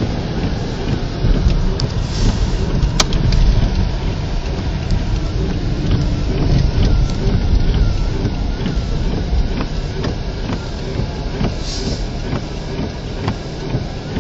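Steady low rumble of a vehicle on the move, with a single sharp click about three seconds in and a few fainter ticks.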